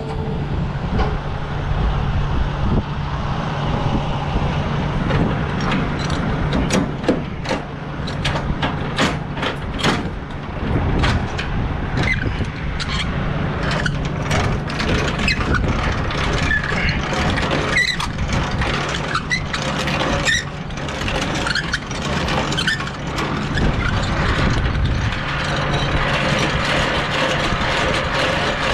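Diesel semi truck engine running steadily while the trailer's sliding tandem axles are moved back, with a run of sharp clanks and knocks from the slider through the middle of the stretch.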